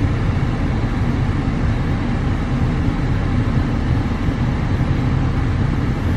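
Steady low rumble of a car's engine idling, heard from inside the cabin, with no distinct events.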